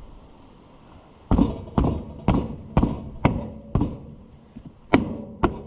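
Eight sharp strikes of a tool working a narrow tractor tire onto its rim. Six come about two a second, then after a short pause two more.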